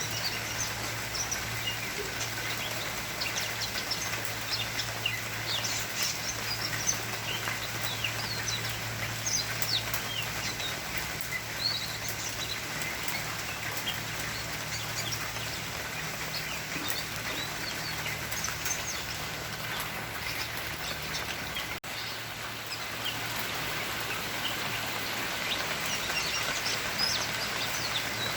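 Many short bird chirps scattered throughout, over a steady background hiss.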